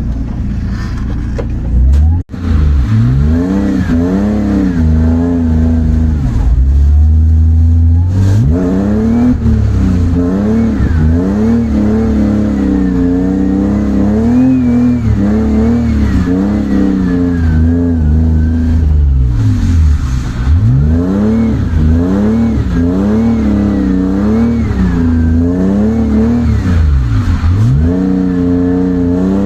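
Drift car engine revving hard, pitch swinging up and down again and again as the throttle is worked through the slides. The sound cuts out briefly about two seconds in.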